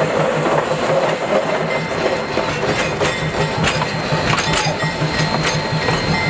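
Passenger train rolling slowly past on the next track: wheels clicking and clanking over the rail joints under a steady low pulsing. Thin high ringing from the wheels comes in about two seconds in.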